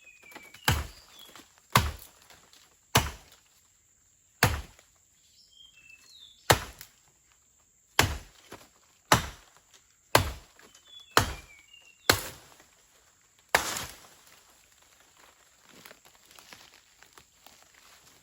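Dead wood being chopped with a blade: about eleven sharp strikes, roughly one every second or so, stopping some four seconds before the end.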